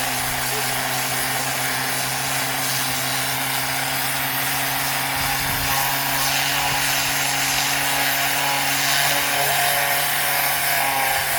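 Handheld power tool running steadily on wood, an even motor hum under a continuous grinding hiss.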